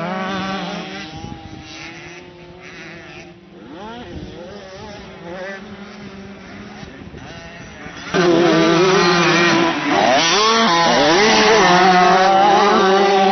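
Motocross bike engines running on the track, revving up and down. The sound is fainter through the middle and becomes much louder about 8 seconds in as a bike revs close by.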